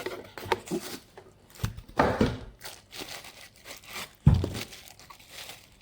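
Packaging being handled and opened, with rustling and crinkling, scattered light knocks, and a dull thump about four seconds in.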